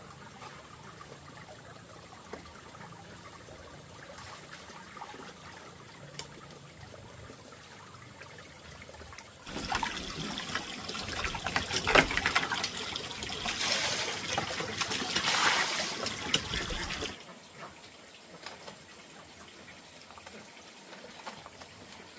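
Water pouring and splashing for about seven seconds near the middle, full of small crackles, then stopping suddenly; before and after, only a faint steady background.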